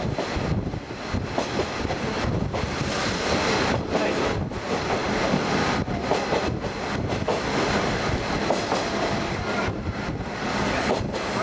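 Diesel trolley train running along the track, heard from inside its open-sided car: continuous wheel-on-rail noise with some clickety-clack.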